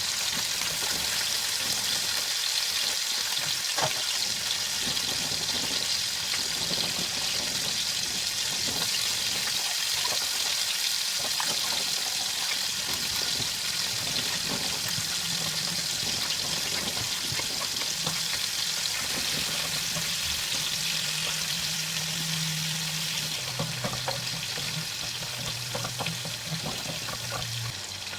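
Food frying in hot oil in a pan: a steady sizzle with scattered light clicks of stirring. A low hum joins in near the end.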